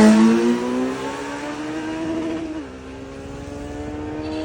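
Kawasaki Z900's inline-four engine through an SC-Project aftermarket exhaust, revving with its pitch climbing slowly as it grows quieter, with a brief dip in pitch about two and a half seconds in.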